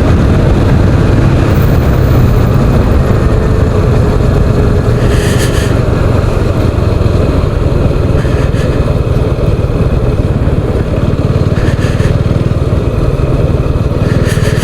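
Motorcycle engine running steadily while the bike is ridden, a low even rumble with a rush of noise over it.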